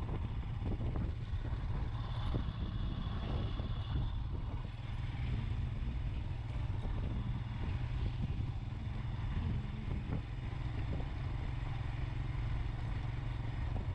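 Motorcycle engine running at riding speed, a steady low rumble, with wind and road noise rushing over the helmet or bike-mounted microphone.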